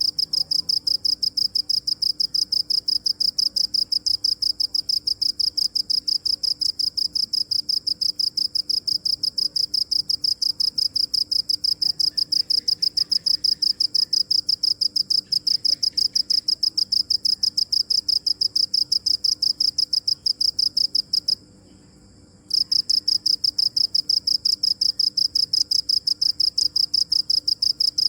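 A cricket chirping: a rapid, even train of high-pitched chirps that stops for about a second about three-quarters of the way through, then resumes.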